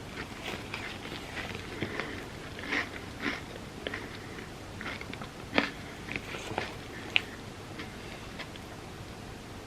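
Close-miked eating sounds from someone eating an ice cream sundae: irregular wet mouth clicks, smacks and chewing, with a few sharper clicks about three, five and a half and seven seconds in.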